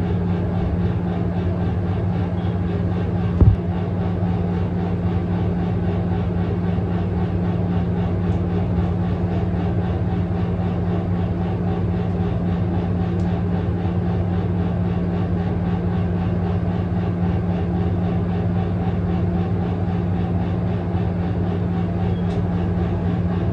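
Steady low mechanical hum, even throughout, with one short knock about three and a half seconds in.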